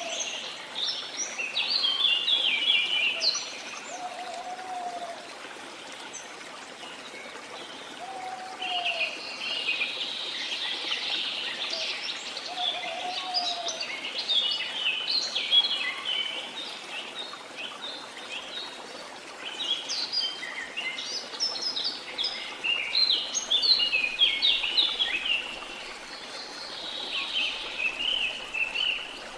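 Several birds singing over a steady rush of flowing water: recurring bursts of fast, high chirping song, and a short lower note repeated about every four seconds in the first half.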